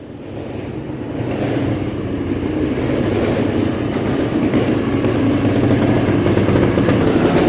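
Motorcycle engine running at a steady speed, fading in over the first two seconds.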